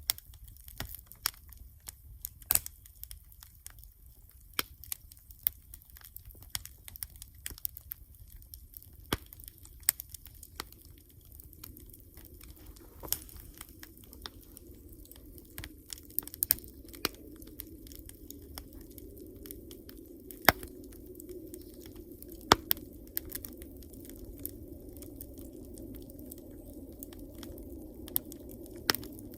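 Wood campfire crackling, with irregular sharp pops and snaps throughout, a few louder ones in the second half. From about halfway a steady low rushing sound comes in and grows.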